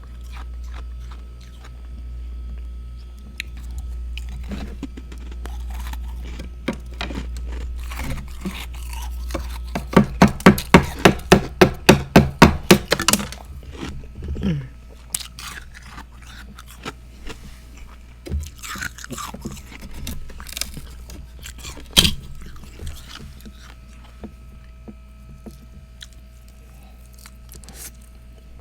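Close-miked mouth sounds of a person eating freezer frost: crunching and chewing, with scattered sharp crunches. About ten seconds in comes a fast run of loud, evenly spaced pulses, a few each second, lasting about three seconds.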